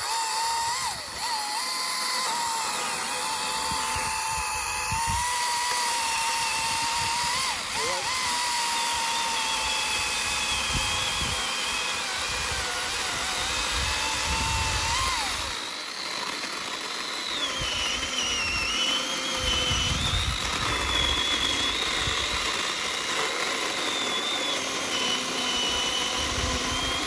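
Two chainsaws cutting through wood side by side in a timed race, their motors whining and the pitch sagging and recovering as the chains bite under load.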